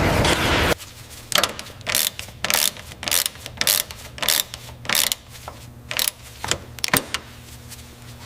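A loud steady noise cuts off under a second in, then a run of irregular mechanical clicks and short clattering strokes, about one or two a second, over a low steady hum: the aircraft's hydraulic system being cycled during a hydraulic check.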